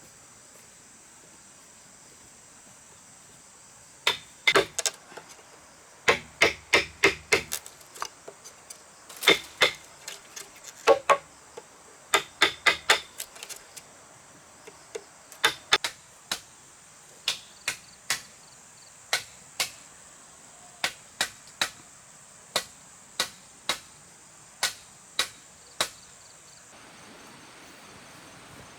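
Repeated sharp knocks of a hand tool striking wood or bamboo, typical of hammering or chopping during building. The knocks come first in quick clusters, then singly at an even pace of a little under two a second, and stop near the end. A steady high drone of insects runs throughout.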